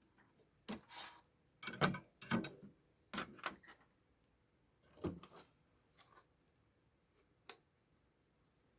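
Irregular clicks, taps and rustles of tools and small parts being handled at a workbench during television power-supply repair, with the loudest knocks about two seconds in and a sharp single click near the end.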